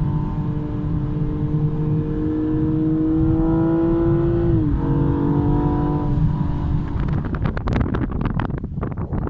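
BMW M235i's turbocharged inline-six pulling under acceleration, its note rising slowly before dropping sharply at an upshift about four and a half seconds in, then holding steady. From about seven seconds in, the engine note gives way to gusty wind noise.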